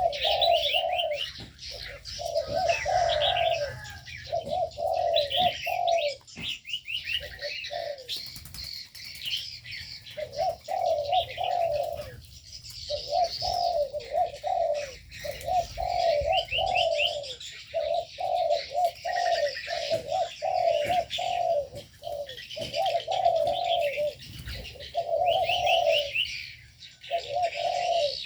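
Spotted doves cooing over and over in an aviary, with smaller birds chirping and trilling high above the coos throughout.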